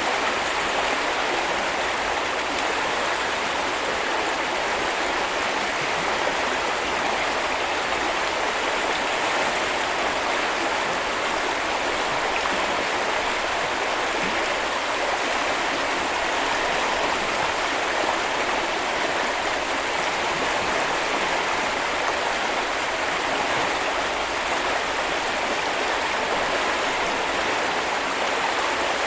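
A small river or brook flowing over stones, a steady even rush of running water.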